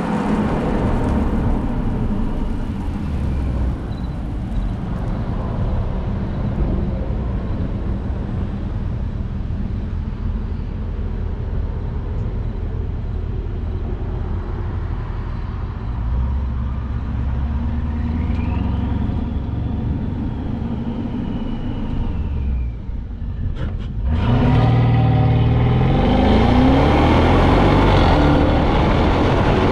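2015 Mercedes-Benz S550's twin-turbo V8 through a resonator-delete exhaust, drumming steadily while driving. Near the end it gets louder and the revs climb as the car accelerates hard.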